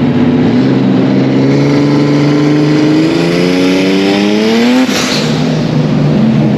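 A car engine accelerating, its pitch rising steadily for about four seconds, then dropping sharply just under five seconds in as it shifts up a gear and pulls on at lower revs.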